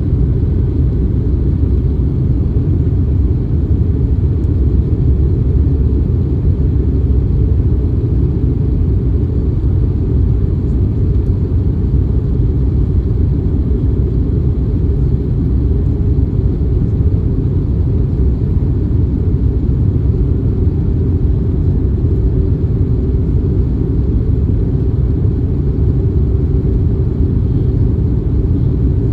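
Steady cabin noise of an Airbus A321neo airliner in flight: a constant low rumble of engines and airflow heard from a window seat, with no change in pitch or level.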